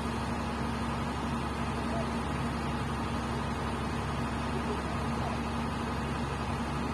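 Komatsu PC200 excavator's diesel engine running steadily, an even hum that holds the same pitch throughout.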